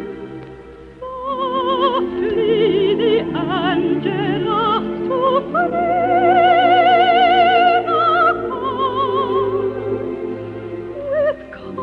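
Operatic soprano singing long held notes with a wide vibrato over a sustained accompaniment. The voice comes in about a second in, after organ-like chords fade.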